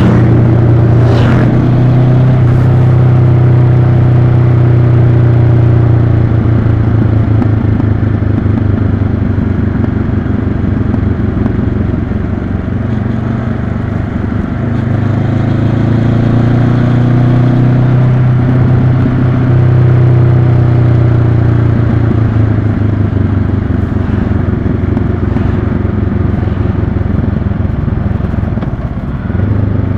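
Honda CB500X's parallel-twin engine running steadily on a motorcycle ride. The engine note sags about halfway through and picks up again, with a short drop in level near the end.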